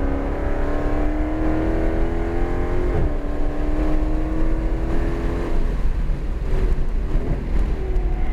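Dodge Charger Hellcat's supercharged 6.2-litre V8 heard from inside the cabin under hard acceleration, its note climbing steadily with a short dip in pitch about three seconds in. A little past halfway the driver lifts off and the engine note drops away as the car slows.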